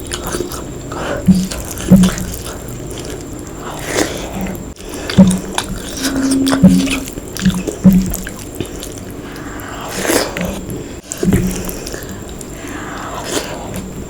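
A person eating a meal of rice and mutton curry: wet chewing, squelching and smacking mouth sounds, broken by irregular sharp bites and clicks.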